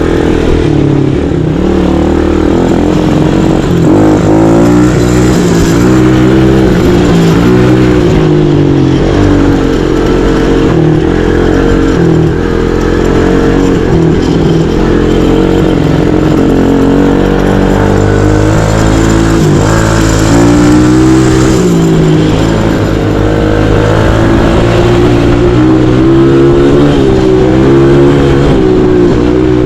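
Mini bike's small engine running loud and close, its pitch rising and falling again and again as the throttle is worked.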